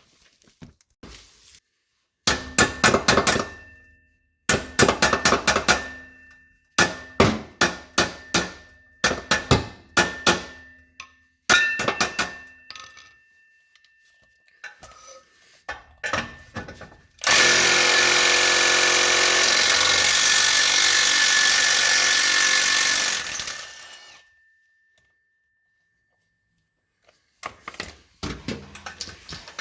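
Tool work on an exhaust pipe clamp: several bursts of rapid sharp clicking and knocking, then a power tool running steadily for about six seconds, then more clicking near the end.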